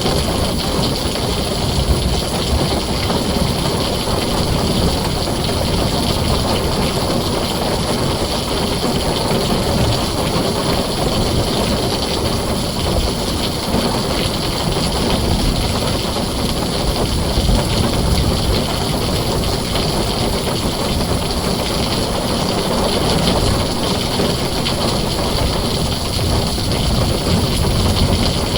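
Heavy rain falling steadily on a tin roof, an even dense hiss with a deep rumble underneath.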